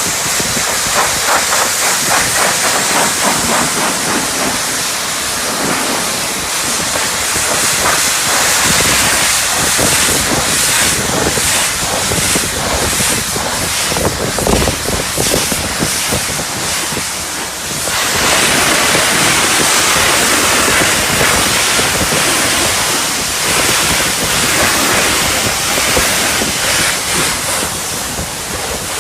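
Self-service car wash high-pressure spray wand jetting water onto a car, a steady loud hiss with a short break about two-thirds of the way through.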